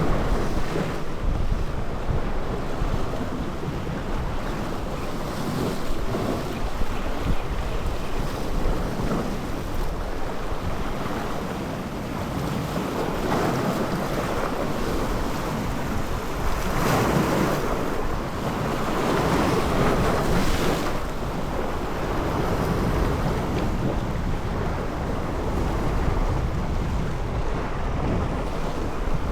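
Sea waves washing, with wind buffeting the microphone in a steady low rumble. The wash surges louder twice around the middle.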